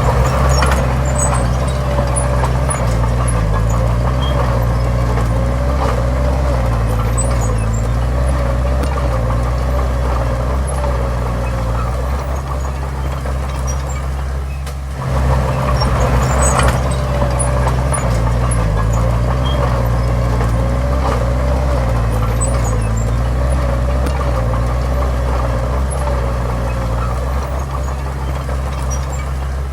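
Heavy diesel engine of an earthmoving machine running steadily, with a low hum and a wavering whine over it; the sound dips briefly about halfway through, then carries on.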